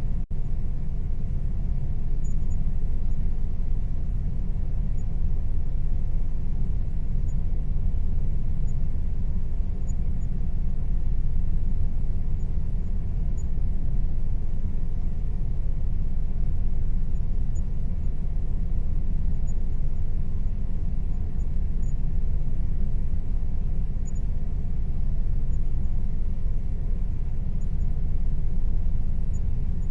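Air conditioner running: a steady low hum with a faint even tone above it, dipping out for an instant just after the start.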